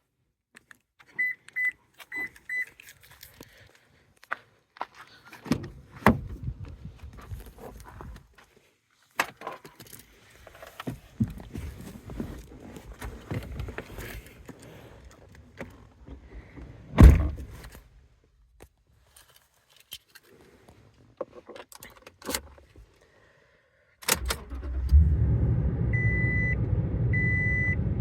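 Four short high beeps, then keys jangling, knocks and a single loud thump as the 2020 Toyota Tundra SR5 is readied. About 24 s in its 5.7-litre V8 starts cold and runs steadily, with a repeating high chime sounding over the idle.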